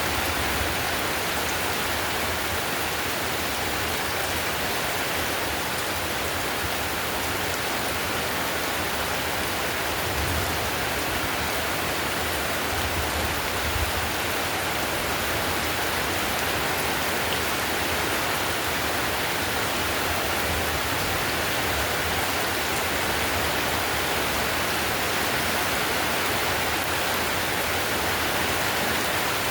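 Heavy rain falling steadily on a tiled roof: a dense, even hiss with no let-up.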